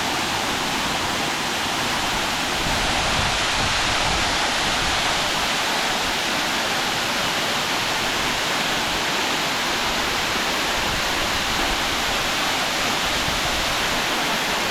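Waterfall: a steady, loud rush of falling water that runs on without a break.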